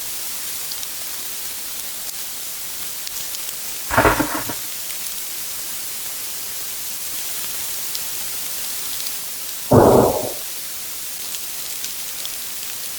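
A steady hiss, with two short, louder sounds about four seconds and ten seconds in.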